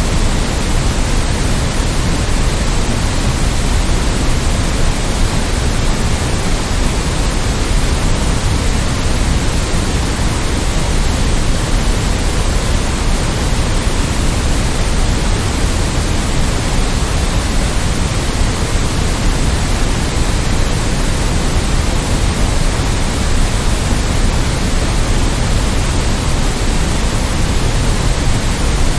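Steady synthetic white-noise sleep track: an even, unbroken hiss across the whole range with more weight in the low end, unchanging throughout.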